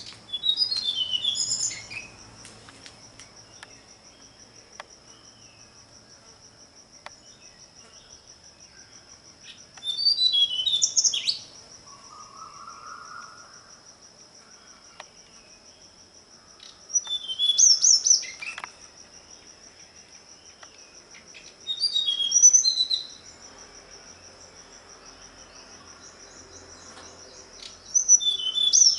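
A songbird singing short, high warbled phrases, five in all, each about a second and a half long and spaced roughly five to six seconds apart, over a steady high insect trill.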